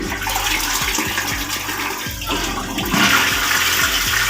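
A newly installed western-style (high) commode being flushed: water rushing steadily from the cistern into the bowl.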